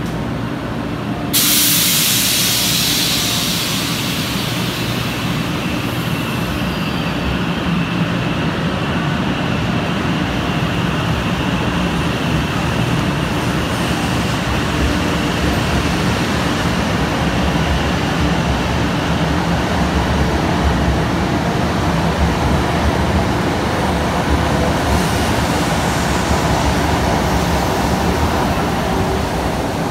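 A 500 series Shinkansen train standing at the platform. About a second and a half in, a sudden loud hiss of compressed air starts and fades away over several seconds, over the steady low hum of the train's equipment.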